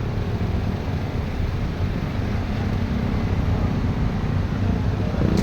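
A steady low rumble of road traffic and wind, with a vehicle engine faintly building toward the end.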